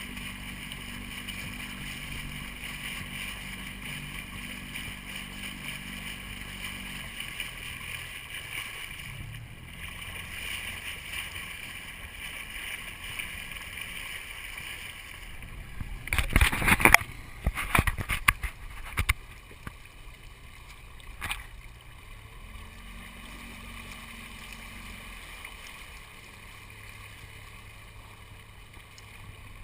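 Water hissing and gurgling along the hull of a small sailboat under way. About halfway through comes a short cluster of loud bumps and knocks, then a single sharp click a few seconds later.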